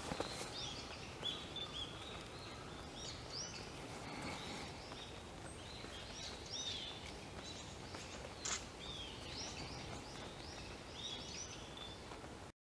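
Small songbirds calling in woodland: many short, high chirps repeated at irregular intervals over a steady background hiss, with a sharp click about eight and a half seconds in. The sound cuts off suddenly near the end.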